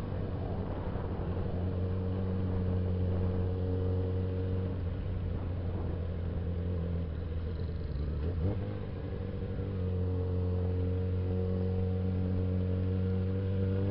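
Suzuki Bandit 650S inline-four engine running at steady revs under way, with a brief dip in the engine note about eight and a half seconds in before it settles back to a steady drone.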